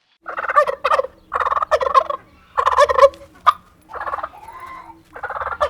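Farm fowl calling: about six short, rattling calls in quick succession, with brief pauses between them.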